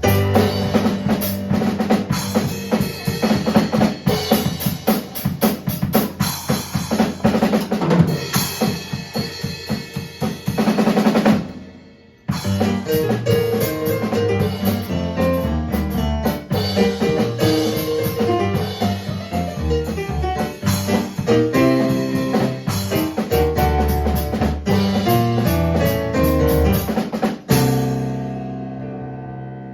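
Live drum kit played busily, with snare, rimshots and bass drum, over keyboard chords. It stops sharply about twelve seconds in, starts again, and ends on a final hit near the end, leaving a chord ringing out and fading.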